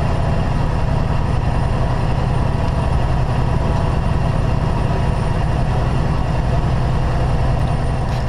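Semi-truck diesel engine running, heard from inside the cab as a steady low drone.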